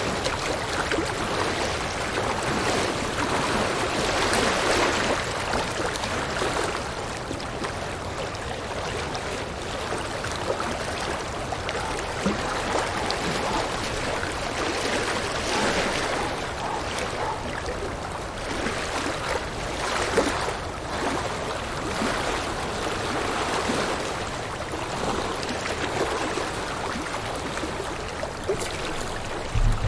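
River water rushing and gurgling over rocks, a steady flow that swells and eases every few seconds. A brief low thump comes at the very end.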